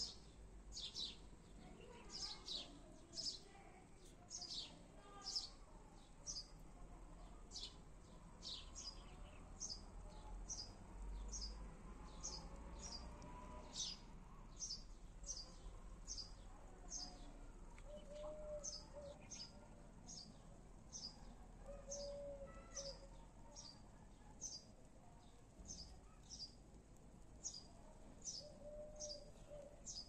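A small bird chirping over and over, faint: a steady series of short, high chirps that fall quickly in pitch, a little more than one a second.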